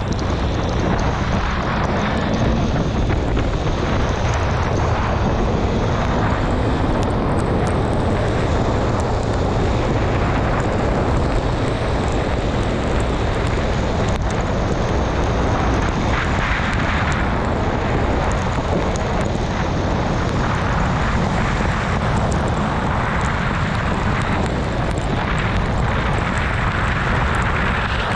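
Honda CB650R's inline-four engine running while riding, mixed with loud, steady wind rush over the microphone.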